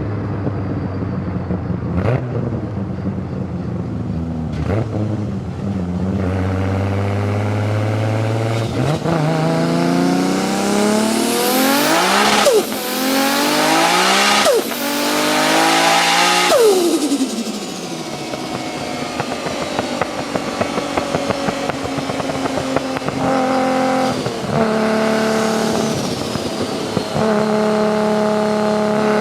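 Heavily tuned, turbocharged Nissan Skyline GT-R R34 straight-six being revved: the engine note climbs in repeated revs from idle, with a high turbo whistle rising over it, and cuts off sharply each time the throttle snaps shut, with turbo flutter. It then settles back to a lumpy, uneven idle.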